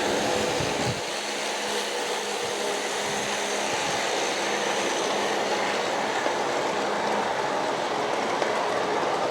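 G-scale model coal train of 42 hoppers pulled by Aristo-Craft SD45 and Dash 9 locomotives, climbing a grade on track power. It makes a steady rolling rumble of wheels on rail, with a faint steady hum that fades out near the end.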